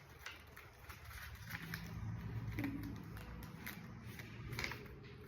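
Faint handling sounds of paper and sticky tape as a strip of tape is pressed onto a folded paper airplane: scattered small clicks and crinkles.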